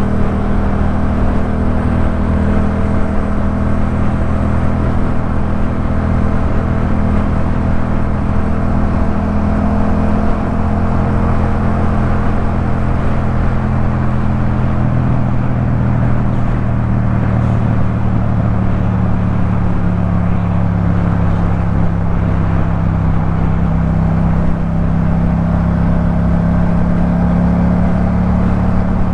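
Yamaha MT-07's 689 cc parallel-twin engine running at steady revs through a Jeskap K4 full exhaust. The note drops slightly about halfway through and then slowly creeps back up toward the end.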